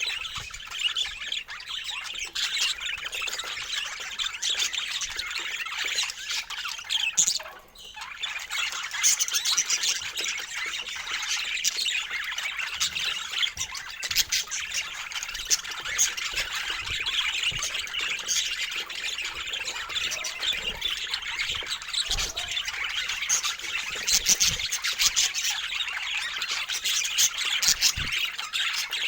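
A flock of birds chattering and squawking continuously, many short overlapping calls at once, briefly dropping away about eight seconds in.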